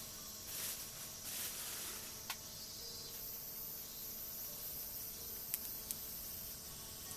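Insects chirping steadily outdoors, with a few sharp cracks: one about two seconds in and two close together near six seconds.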